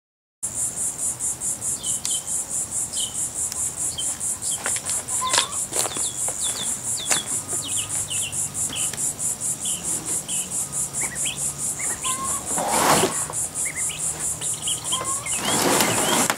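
A loud chorus of insects such as crickets or katydids, a high-pitched chirring that pulses about four times a second, with scattered short bird chirps. Two short rushing noises come in near the end.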